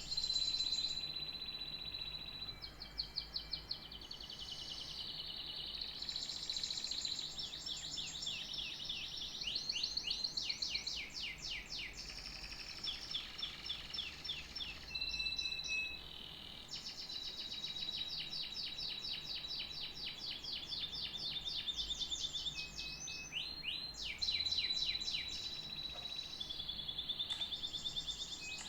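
Canary singing a long unbroken song of fast trills and rolls, mixed with held high notes.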